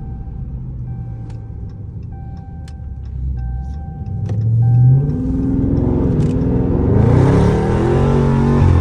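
Dodge Scat Pack's 392 Hemi V8 through a mid-muffler-delete exhaust, idling, then revving up about halfway through and held at higher revs, much louder and raspier, near the end.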